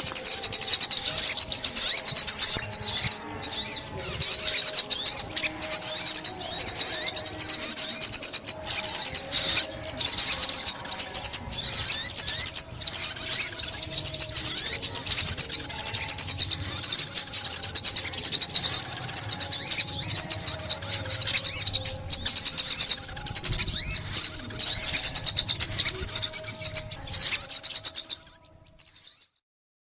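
Sunbird (chim ốc mít) song: a fast, continuous, high-pitched twittering that breaks off briefly near the end.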